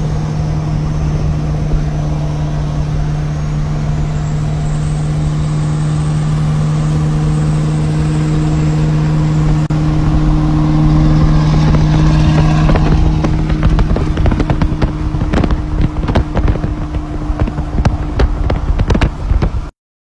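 Ford truck engine running with a steady hum. From about twelve seconds in, many irregular clicks and knocks sound over it, and the sound cuts off abruptly near the end.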